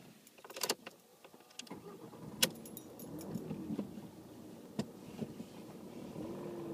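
Car engine being started: a few sharp clicks, then the engine starts about two seconds in and keeps running. Its pitch rises and falls as the accelerator is pumped, and a sharp click comes in the middle.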